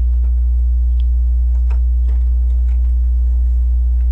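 Plastic Lego pieces being handled and pressed together, giving a few light scattered clicks, over a steady low electrical hum.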